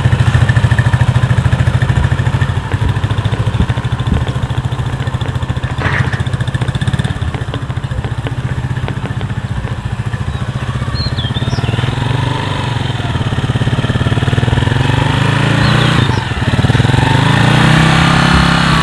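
Rusi motorcycle-and-sidecar tricycle's small single-cylinder engine running as it is ridden, its pitch rising and falling with the throttle. It gets louder again over the last few seconds as the tricycle comes back.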